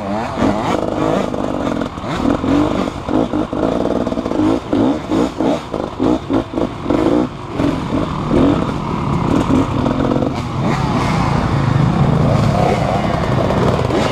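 An engine revving up and down in short, uneven bursts, settling into a steadier run in the second half.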